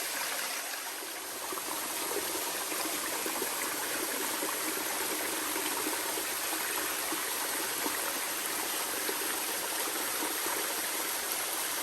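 Small rainforest waterfall running at low flow: a steady splashing and trickling of water falling onto rocks.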